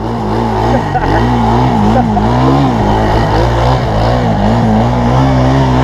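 Small off-road engine running close by, its pitch swinging up and down as the throttle is worked.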